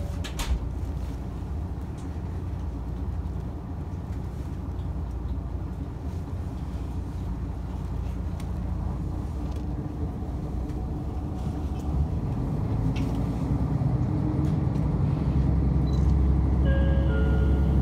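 Inside the cabin of a diesel railcar: a steady low engine and running rumble that grows louder over the last several seconds as the engine revs up. A few short high tones sound near the end.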